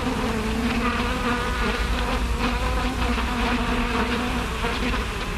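Buzzing of bees: a steady pitched drone that comes in suddenly and fades out about four and a half seconds in, over the hiss and low hum of an old film soundtrack.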